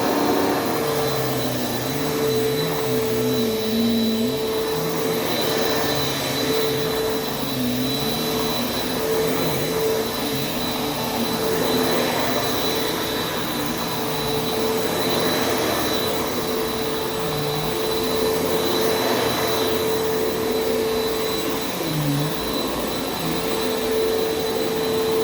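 Hoover Preferred upright vacuum cleaner running steadily: a steady motor whine with a fainter high-pitched whistle above it over a rushing hiss.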